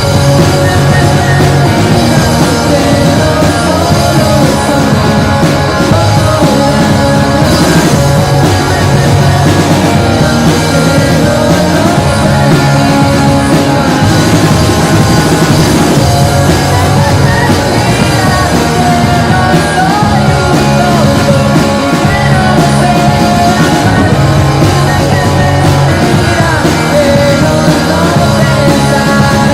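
Live rock band playing loud and steady, with two electric guitars, bass guitar and a drum kit.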